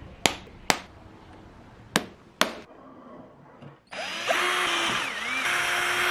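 Four sharp knocks in two pairs, then a power tool runs for about two seconds, its pitch dipping briefly partway through, and stops suddenly.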